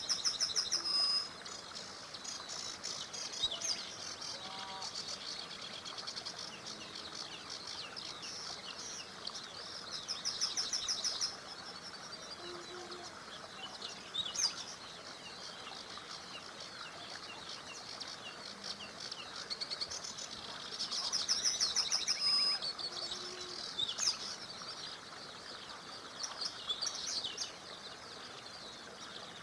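Songbirds singing: a rapid trilled phrase comes three times, about ten seconds apart, among scattered shorter chirps and calls from other birds, over a faint steady rush of a small river.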